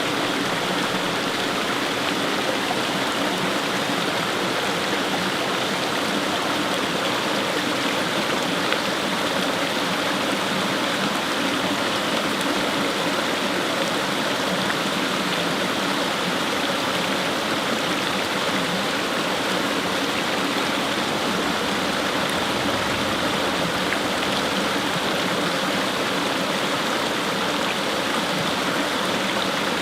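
Fast-flowing stream rushing over rocks, a steady even splashing and burbling of water.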